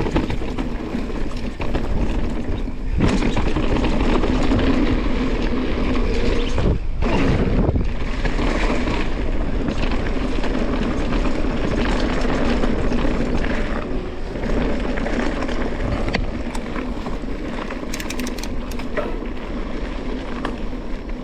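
Riding noise from a bike descending a dirt trail: tyres rumbling over the ground, wind on the camera microphone and frame rattle. There is a brief lull about seven seconds in and a few sharp clicks near the end.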